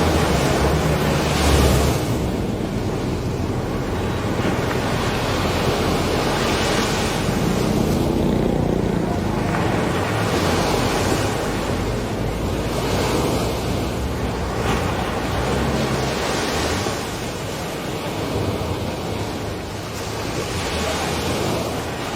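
Steady rush of floodwater, swelling and easing every second or two, with wind buffeting the microphone.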